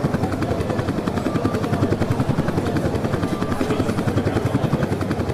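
Mi-17 V5 helicopters hovering at low height, their rotors making a steady, rapid, even pulsing rumble.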